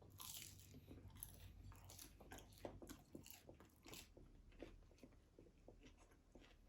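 Biting into and chewing a crispy fried egg roll close to the microphone: a run of irregular crunches and crackles.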